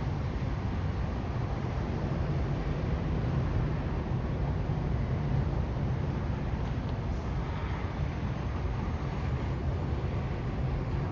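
Steady outdoor urban rumble with an even hiss over it, unchanging throughout, with no distinct events.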